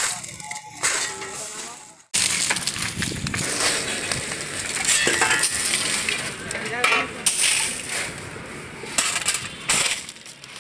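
Steel shovels scraping and scooping crushed stone, the gravel clinking and rattling as it is moved. The sound breaks off suddenly about two seconds in, then goes on.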